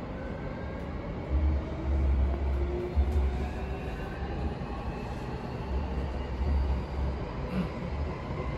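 Running sound inside a pre-production JR East E235-0 series commuter train car: the electric traction motor whine slowly rising in pitch as the train accelerates, over a low rumble of wheels on the track that swells and fades.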